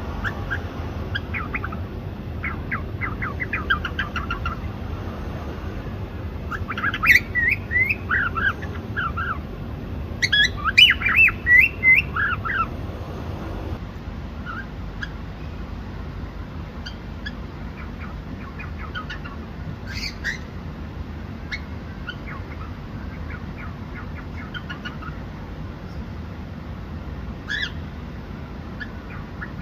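Cockatiel chirping in rapid runs of short, sliding notes, with two louder bursts about a quarter and a third of the way in, then only scattered single chirps.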